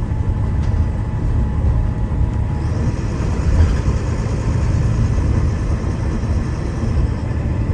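Wright Gemini 2 double-decker bus under way, heard from inside: its diesel engine runs with a steady low rumble over road noise.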